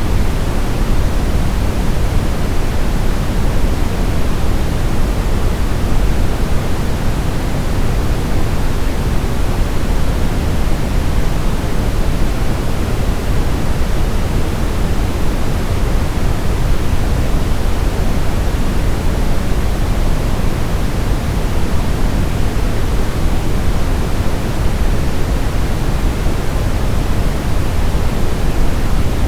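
Steady, unchanging noise from a baby sleep-aid recording: a constant rushing hiss, fuller in the low end than a plain high hiss.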